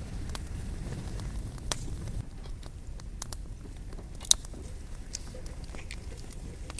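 Wood fire crackling: scattered sharp pops and snaps of burning logs over a steady low rumble, with one loud pop about four seconds in.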